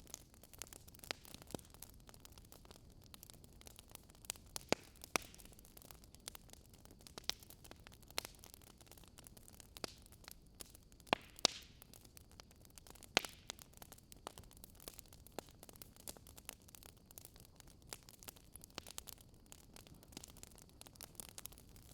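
Bonfire crackling faintly: scattered, irregular sharp pops and snaps over a low steady hiss, a few pops louder than the rest.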